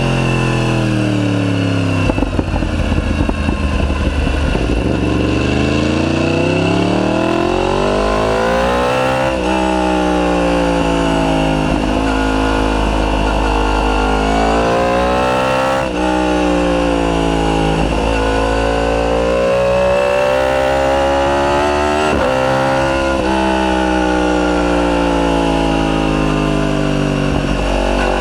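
Yamaha YZF-R1's crossplane inline-four through a decat Akrapovic full titanium exhaust. It comes off the throttle with crackling on the overrun, then accelerates hard through the gears, the revs climbing and dropping at each upshift about every seven seconds.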